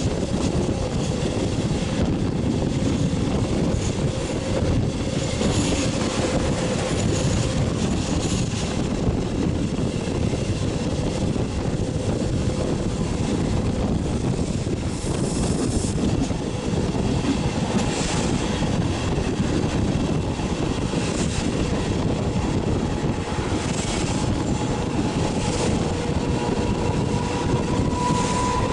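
Regional passenger train running at speed, heard from a window: a steady rumble of wheels on rails and rushing air, with a faint steady whine and a few clacks over rail joints in the second half.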